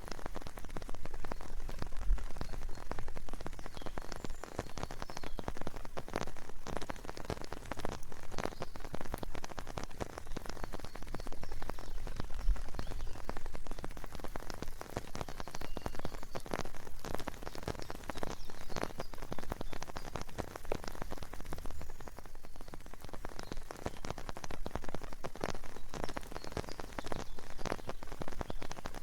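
Steady rain, with many individual drops striking a surface close by in a dense, uneven stream of light taps.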